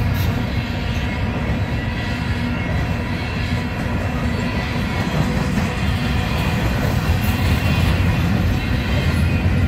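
Union Pacific intermodal train of double-stack well cars rolling past on the rails: a steady, continuous noise of steel wheels on rail and rattling cars.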